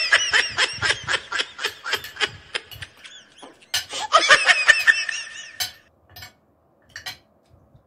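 A man laughing in quick repeated bursts, most of it in the first three seconds and again briefly about four to five seconds in. It is followed by a few light clicks of a metal spoon and fork on a ceramic plate.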